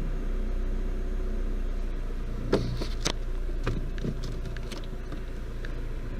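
Toyota AE111 Sprinter Trueno's 4A-GE 20-valve 1.6-litre four-cylinder engine idling steadily, with a handful of sharp clicks around the middle.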